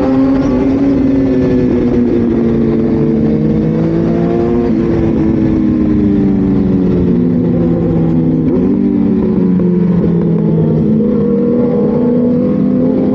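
High-displacement motorcycle engine running continuously and loud, its pitch sliding slowly down and then climbing again near the end as the throttle changes.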